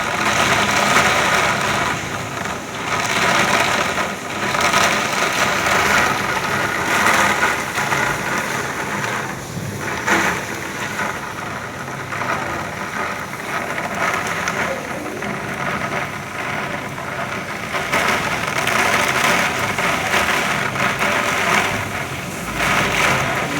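Heavy rain pouring down, a dense steady hiss that swells and eases.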